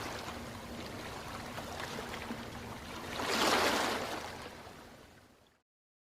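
Ocean waves washing on a shore, a steady rush with one wave swelling and breaking about three and a half seconds in. The sound then fades out to silence near the end.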